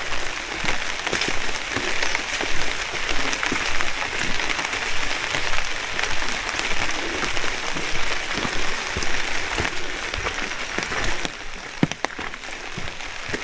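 Rain falling steadily, a dense hiss of many small drops striking close by. It eases slightly near the end, where there are a couple of sharper knocks.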